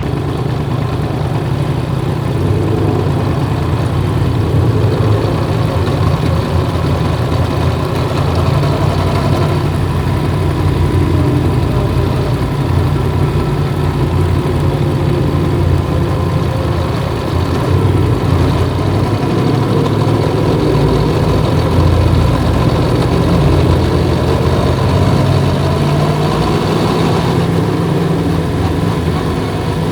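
Yamaha MT-10's 998 cc crossplane inline-four engine running steadily while the motorcycle is ridden, with a few small swells in engine pitch and level near the middle.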